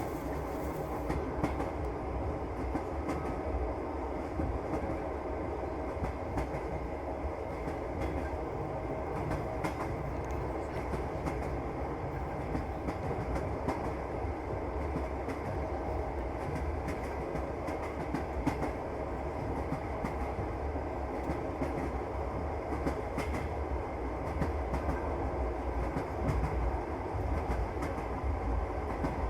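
Passenger train carriage rolling along the track: a steady rumble from the wheels and running gear, with the clickety-clack of the wheels over the rail joints, heard from inside the carriage.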